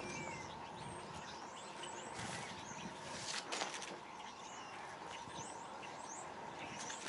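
Small birds chirping, many short high calls, over a steady outdoor hiss with a faint steady hum. A brief louder sound comes about halfway through.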